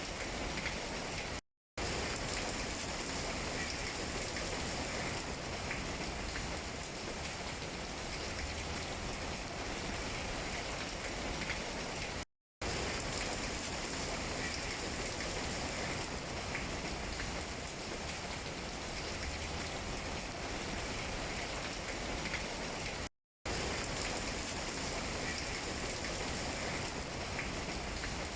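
Steady rain falling on tree leaves: an even hiss with scattered light drop taps. The sound cuts out completely for a split second three times, about a second and a half in, midway and near the end.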